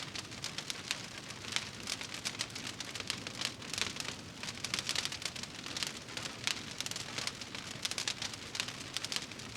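Wood fire burning in a fireplace, crackling steadily with dense, irregular small pops and snaps.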